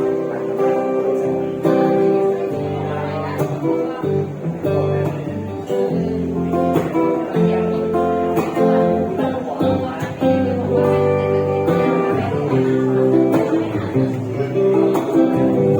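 Acoustic guitar strummed and picked in a steady run of chords, a song's instrumental intro.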